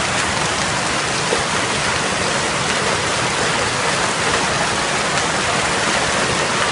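Hailstorm: hail and heavy rain pelting down in a dense, steady rush of many small impacts.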